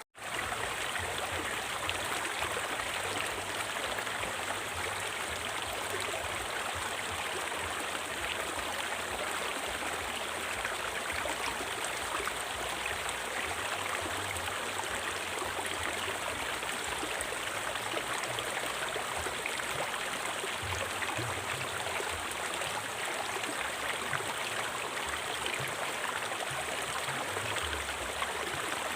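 River water flowing steadily over rocks, an even rushing with no change in level. The sound cuts out for an instant right at the start.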